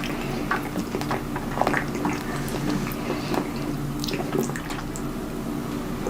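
Close-up wet eating sounds: chewing, lip smacking and squishing of soft, saucy food, with scattered short clicks.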